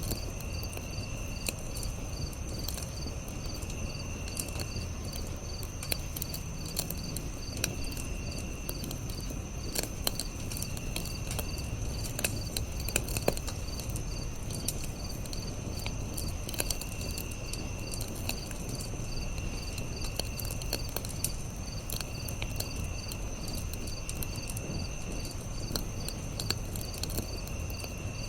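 Crickets chirping in a fast, even rhythm over a steady high insect drone, with another insect trilling in short bursts every two to three seconds. Beneath them a campfire crackles with scattered sharp pops over a low steady rumble.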